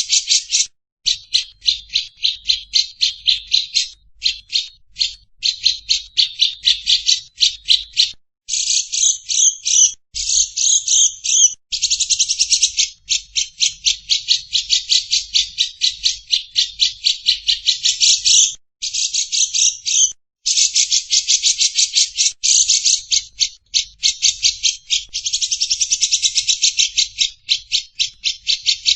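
Recorded bird calls played as a masteran track: long runs of rapid, shrill, repeated chattering notes, several a second, broken by short pauses.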